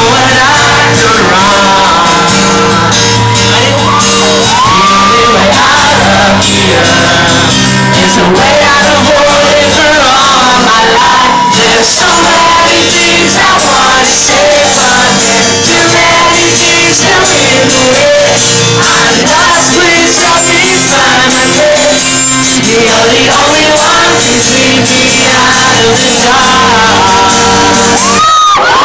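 Live rock band playing loudly in a hall, with a sung vocal line and shouted vocals over guitars and drums, and the crowd singing along.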